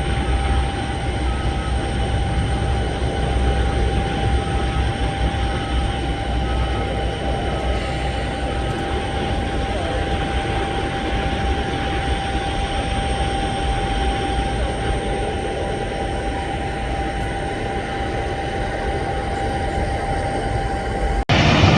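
Boeing 737 jet engines running steadily at low power: a constant rumble with a steady high whine. Near the end the sound cuts off abruptly and a louder burst of the same kind of noise begins.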